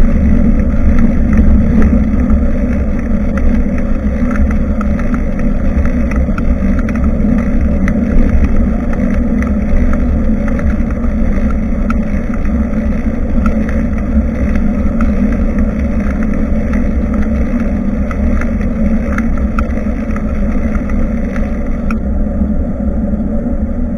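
Steady low wind rumble and road noise on a bike-mounted action camera's microphone while cycling, with scattered small ticks over it. The higher hiss drops away near the end.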